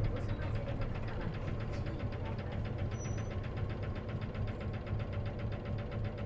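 Isuzu KC-LV380N bus engine running at a steady low speed, with a fast, even rattling tick over its hum. This is the odd noise this bus makes, which the owner thinks may be a symptom that manual-transmission buses can develop.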